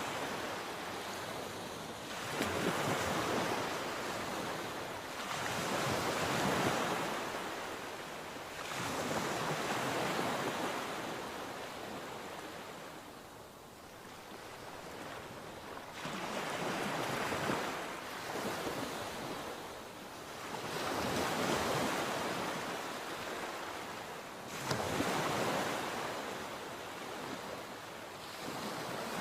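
Sea waves breaking and washing up the shore, the surf swelling and ebbing about every three to four seconds, with a quieter lull about halfway through.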